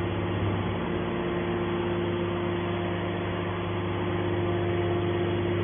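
Hydraulic scrap metal baler's power unit running with a steady hum, a low drone with a steady mid-pitched tone over it.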